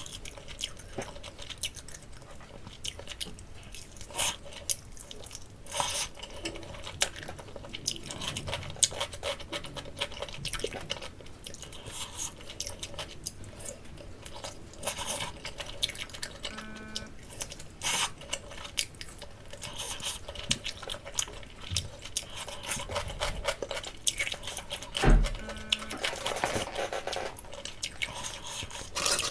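Close-miked eating of jerk chicken: chewing with many small wet mouth clicks and smacks, and a single heavier thump near the end.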